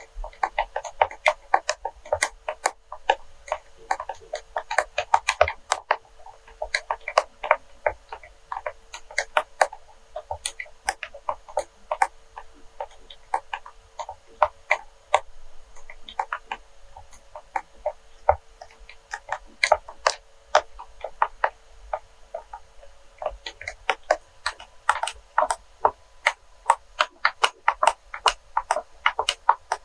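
Close-up ASMR tapping: quick, light taps on hard objects, coming several a second in irregular runs, with brief pauses between runs.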